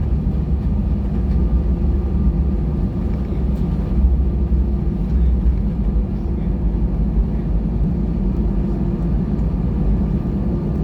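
Steady cabin noise of an Airbus A320-232 with its IAE V2500 engines running: a constant low rumble with a steady hum over it.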